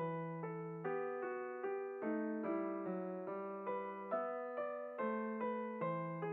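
Background music: solo piano playing a slow, gentle melody with chords, a new note or chord struck about every half second.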